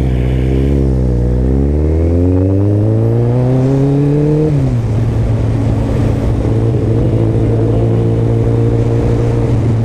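Kawasaki Ninja ZX-14R's inline-four engine under acceleration, its pitch rising steadily for about four seconds, then dropping sharply and holding a steady note for the rest.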